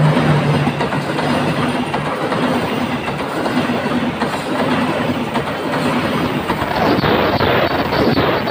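Train passing close by, its wheels clattering over the rail joints in a steady rumble, with a quicker run of clacks near the end.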